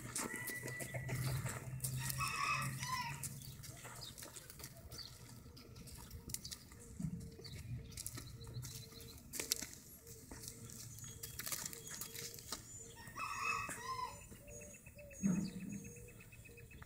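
Two short bird calls, about two seconds in and again near the end, over faint scattered clicks and rustling.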